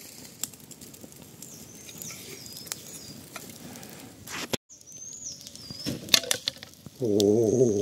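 Campfire crackling with scattered sharp snaps, while birds give short whistling calls now and then. Near the end a person's voice sounds briefly and loudly.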